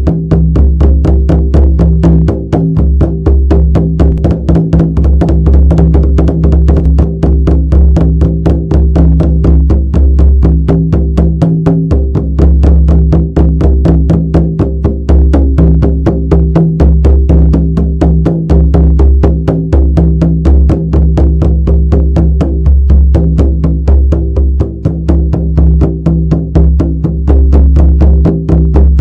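Shamanic frame drum beaten in a fast, even rhythm of several strokes a second, with a steady deep resonance under the beats.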